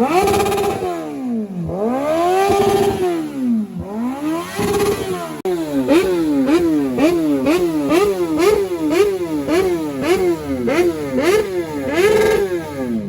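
Sport motorcycle engine being revved hard: three long revs that climb and fall away, then, after a cut, a quick run of throttle blips about two a second, ending with one more rev that dies down.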